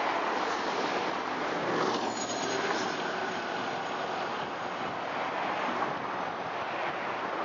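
Tri-Rail commuter train running beneath an overpass and pulling away, its diesel locomotive at the rear. A steady rush of engine and wheel noise slowly fades as the train recedes.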